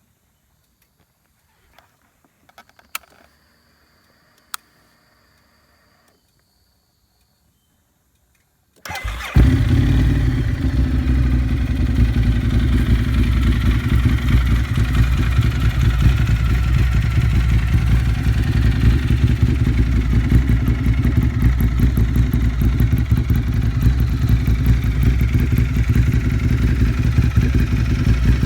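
Ducati Monster 1100 EVO's air-cooled L-twin engine through an open Termignoni full exhaust with no dB killer: after a few faint clicks, it is started about nine seconds in and settles straight into a loud, steady, deep idle.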